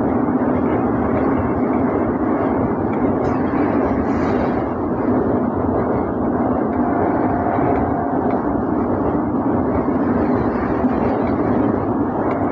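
Steady, loud running noise of a train crossing a steel truss bridge, heard from on board.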